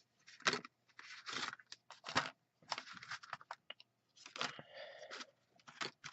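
Handmade cardstock cards being handled and slid about on a table: a series of short papery scrapes and rustles.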